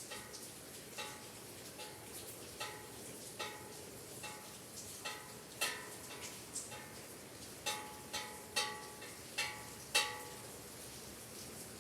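Small bells of a bell tower ringing in irregular single strikes, each a short pitched ring that dies away quickly, about a dozen and a half in all, the strongest ones bunched near the end. A soft steady hiss, such as falling rain, lies underneath.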